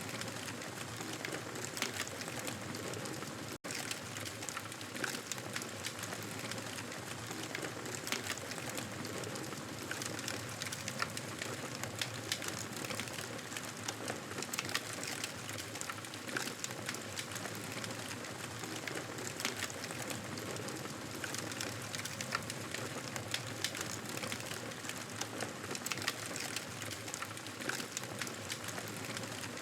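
Wood fire crackling in a fireplace: a steady hiss with irregular small pops and crackles scattered throughout. It drops out for an instant a few seconds in.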